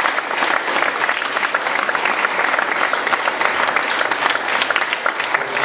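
Concert-hall audience applauding steadily, many hands clapping at once.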